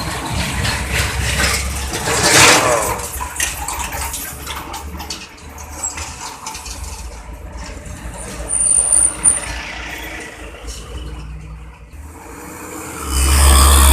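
Heavy road traffic with trucks driving past. One loud pass-by swells and fades about two seconds in, a brief high squeal comes around the middle, and a loud deep rumble of another heavy vehicle builds near the end.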